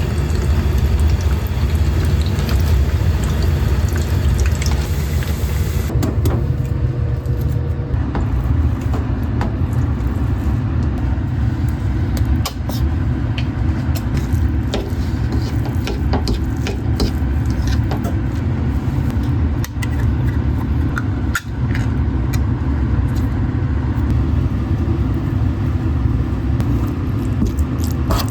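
Steady low rumble, such as a kitchen fan or appliance running, under scattered light clicks and taps of food preparation.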